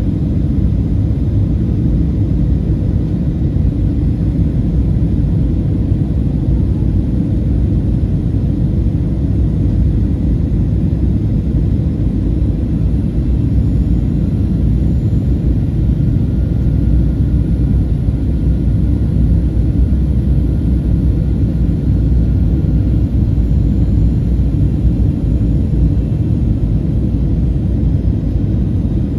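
Steady low cabin rumble of a Boeing 737-800 in flight: airflow and the CFM56-7B engines, heard from inside the passenger cabin, with a faint steady hum above the rumble.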